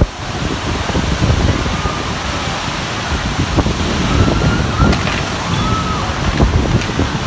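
Storm wind with heavy rain, gusts buffeting the microphone in uneven low surges.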